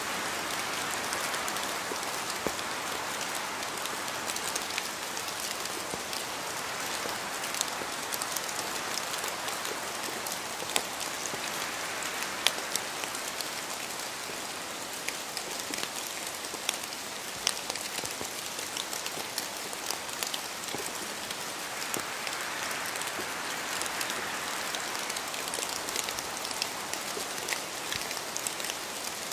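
Steady rain falling, with a constant hiss and many individual drops ticking sharply on a hard surface.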